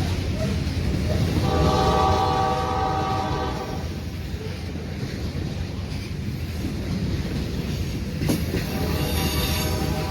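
Freight locomotive horn, on a lead GE AC44C6M, sounding a long blast of about two seconds, then starting again near the end, over the steady rumble of the approaching train.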